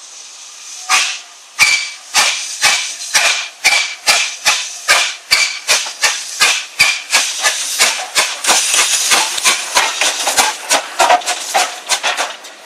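Steam locomotive's exhaust chuffing as it pulls away: sharp beats with steam hiss between them, starting about a second in and quickening from about two a second to about three.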